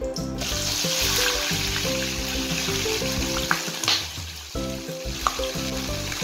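Coated mackerel roe hitting hot oil in a stainless steel wok, sizzling loudly from about half a second in as it deep-fries, while a spatula stirs with a few light clicks. Background music plays underneath.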